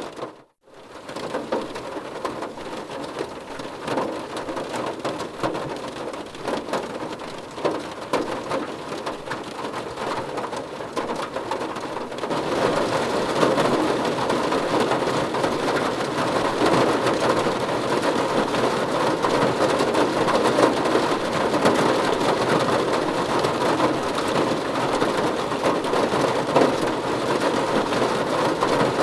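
Steady rain falling, with a brief cut-out right at the start and a step up to louder rain about twelve seconds in.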